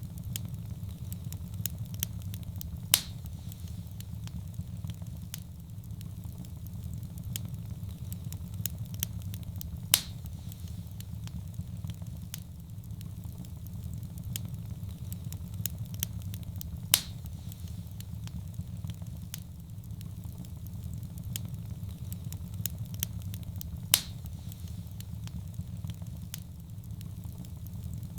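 Wood fire burning in a fireplace: a steady low roar with frequent small crackles, and four louder sharp pops about seven seconds apart.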